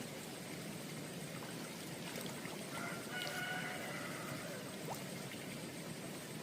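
A rooster crowing once, one drawn-out call a little under three seconds in, over steady background noise.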